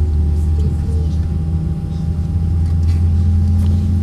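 Airbus A320-232 cabin noise heard from a window seat during the taxi: a steady low engine drone with a constant higher hum running through it.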